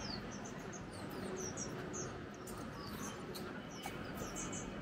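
Small birds chirping: short, high notes that fall in pitch, repeated two or three times a second, over a steady low background hum.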